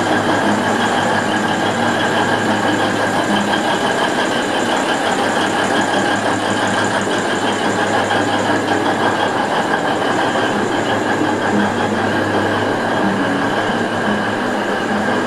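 Alishan Forest Railway diesel locomotive and its passenger carriages moving slowly past, a steady engine drone over the running noise of the train.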